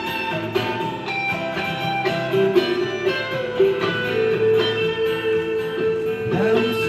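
Instrumental break of the live song: a lead guitar line plays over strummed rhythm guitar, holding one long note for about three seconds in the second half, then bending away near the end.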